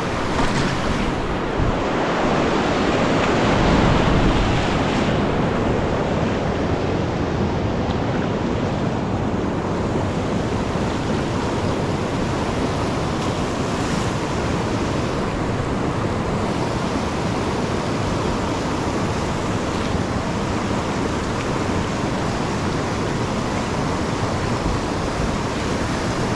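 Steady rush of creek whitewater running through a rapid, with some wind on the microphone; it swells slightly a few seconds in.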